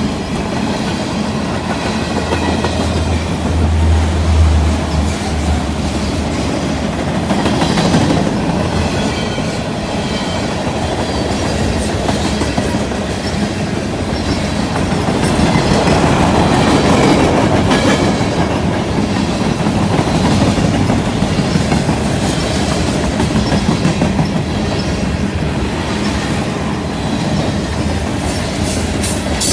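Freight cars (boxcars, tank cars and covered hoppers) of a CN mixed freight rolling past close by: a steady rumble with wheels clacking over the rail joints.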